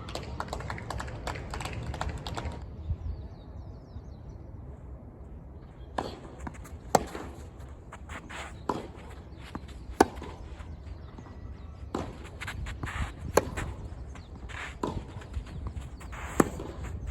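Tennis rally: sharp racket strikes on the ball, starting about six seconds in and coming roughly every second and a half.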